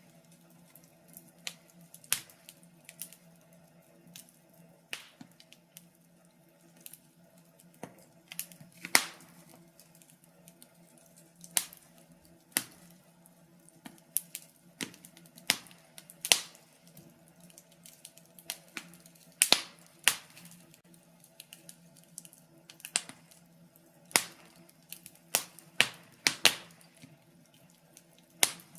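Fireplace fire crackling, with irregular sharp pops at uneven spacing over a faint steady low hum.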